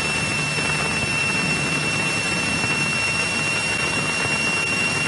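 Cessna 172E's Continental O-300-D six-cylinder engine at full takeoff power during the takeoff roll, a steady drone with a thin, steady high whine over it.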